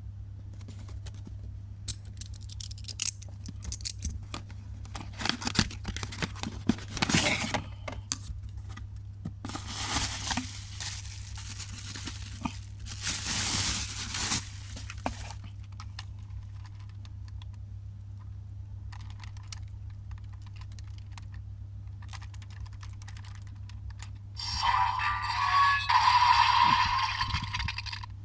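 Plastic packaging being torn and crinkled in several bursts, over a steady low hum. Near the end a louder stretch of sound with steady tones comes in.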